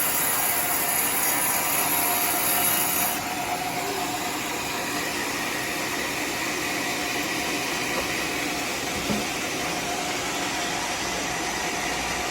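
Homemade sawmill sawing teak; the high hiss of the cut stops suddenly about three seconds in, and the mill's motor keeps running steadily afterwards.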